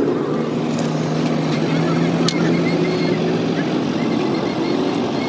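Vehicle engine running at a steady idle, its low hum holding one pitch and then dropping away about three and a half seconds in.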